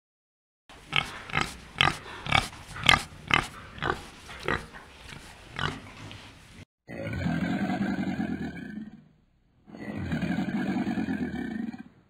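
Wild boar grunting in a quick series, about two grunts a second. Then a crocodile gives two long, low, rough bellows, each lasting about two seconds.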